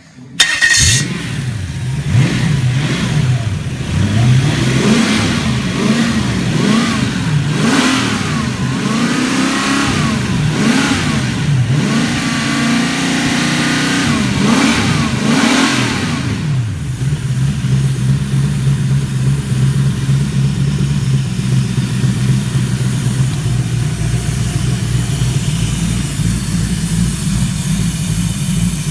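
Toyota 1UZ-FE V8 engine catching just after the start and being revved up and down over and over for about sixteen seconds, then settling into a steady idle.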